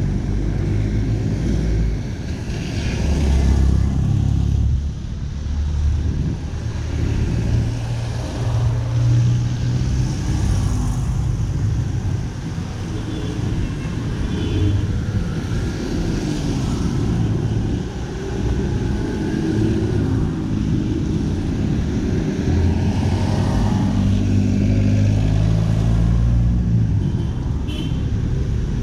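City street traffic: cars and motorcycles passing close by one after another, their engines running, with a steady traffic hum between them.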